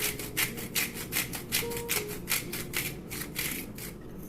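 A spoon stirring rice in a cooking pot: quick rhythmic scraping strokes, about three a second, that fade out near the end, over soft background music.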